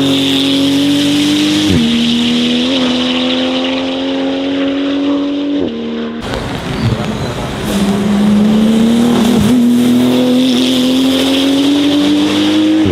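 Porsche 911 GT2 RS Clubsport's 3.8-litre twin-turbo flat-six at full throttle, its pitch climbing steadily, with sharp drops at upshifts about two seconds in, near six seconds and near nine and a half seconds. A short break near the middle interrupts the climb.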